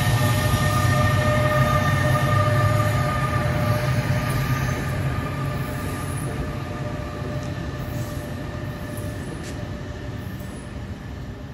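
Commuter train rolling through the station: a low rumble with a steady wheel squeal. The squeal dies away about halfway through and the rumble fades as the train moves off.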